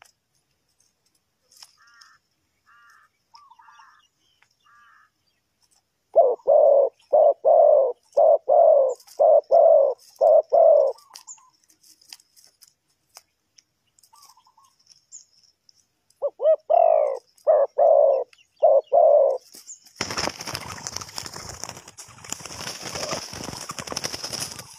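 Spotted dove cooing in two runs of deep, evenly spaced notes, the first about eight notes long and the second about five, with a few faint higher chirps before them. Near the end comes a few seconds of rustling noise.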